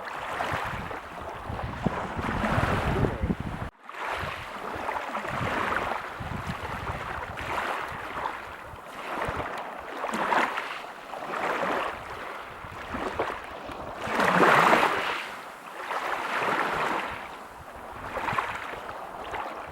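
Waves breaking on a beach: surf washing in rolling surges every two seconds or so, the biggest about three-quarters of the way through. The sound drops out abruptly for an instant about four seconds in.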